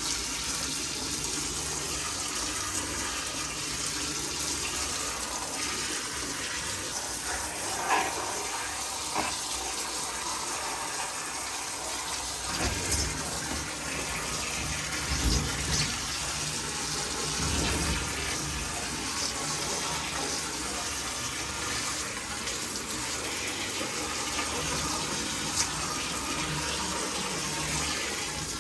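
Steady running water during the washing of keyboard parts, with a few light clicks and soft knocks around the middle.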